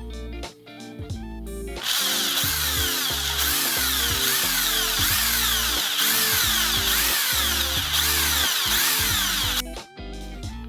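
Background music, then from about two seconds in a loud power drill boring a hole into the motorcycle frame, running for about eight seconds before it stops, with the music carrying on underneath.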